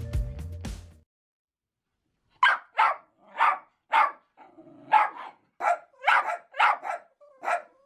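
Small dog, a Jack Russell terrier, barking about a dozen times in a steady run, roughly two barks a second. The barking starts a couple of seconds in, after the music fades out.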